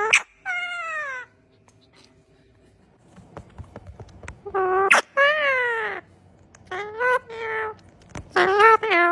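A pet parrot giving a series of drawn-out, meow-like calls that fall in pitch, with short pauses between them.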